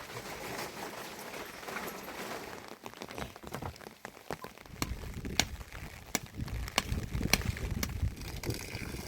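Rain falling steadily, with about six sharp taps of large drops striking close by during the second half, and a low rumble that comes in about halfway.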